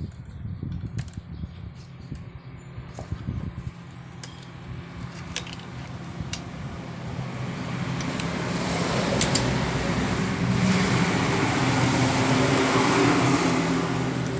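A motor vehicle passing by, its engine and road noise swelling over several seconds to a peak and starting to fade near the end. A few light clicks sound in the first half.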